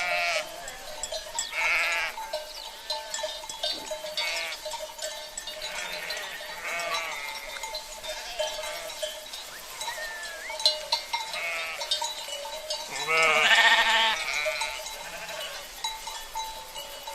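Sheep bleating again and again, about seven calls with the loudest about two-thirds through, over the steady ringing and clinking of the flock's cowbells.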